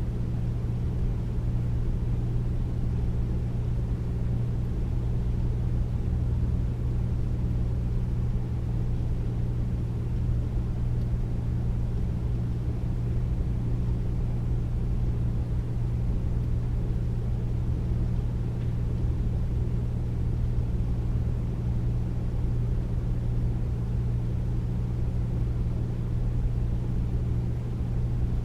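Air conditioner running steadily: a constant low hum.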